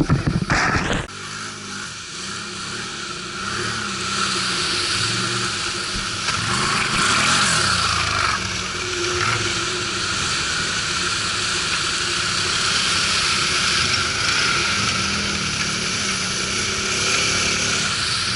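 ATV engines running as the quads ride, their pitch rising and falling, over a steady rushing noise. There are a few loud knocks in the first second.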